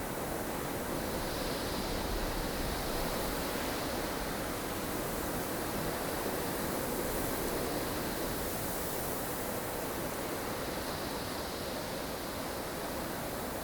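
Snowstorm wind blowing as a steady rushing noise, with gusts swelling a little twice.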